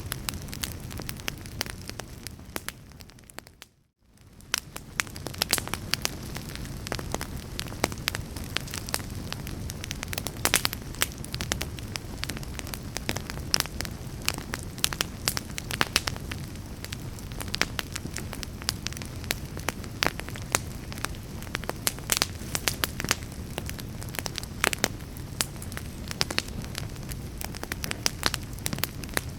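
Wood fire in a fireplace crackling, with frequent sharp pops over a steady low rumble and hiss. The sound fades out briefly about four seconds in, then comes back.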